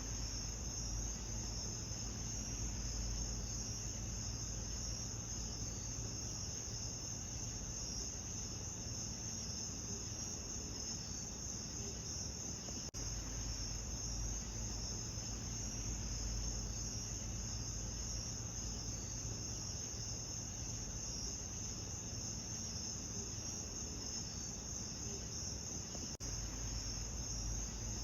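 Steady chorus of crickets with a high-pitched trill over a low rumble, briefly cutting out about thirteen seconds in and again a couple of seconds before the end.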